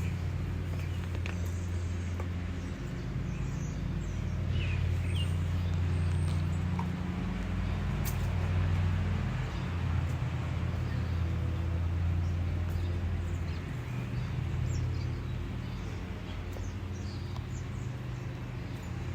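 Steady low mechanical hum, like a motor or engine running, with faint short bird chirps scattered over it.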